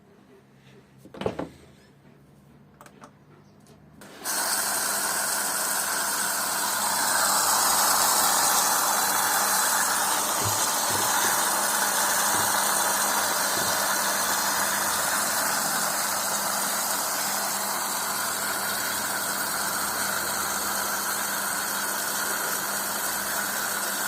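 Zanussi washing machine filling with water: a click about a second in, then about four seconds in a sudden, steady hissing rush of incoming water with a low hum underneath.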